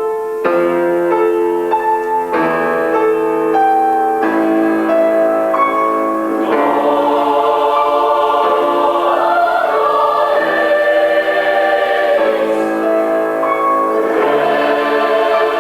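Boys' and young men's choir singing a song in held chords, the sound filling out into a fuller texture about six seconds in.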